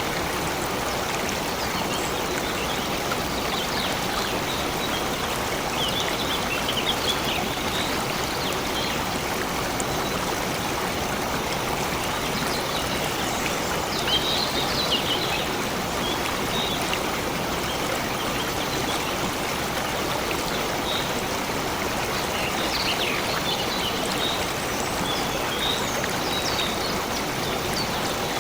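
A stream running steadily, with a few brief high-pitched sounds now and then over the flowing water.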